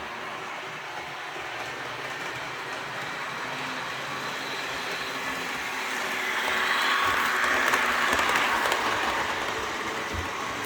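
HO scale model trains running on the layout, the wheels and motors making a steady rolling hiss that grows louder for a few seconds past the middle as a train passes close.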